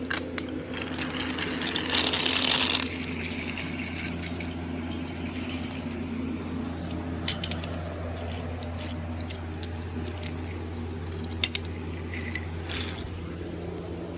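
Toy train's small electric motor and gears whirring steadily, with a burst of hiss about two seconds in and a few sharp clicks later on.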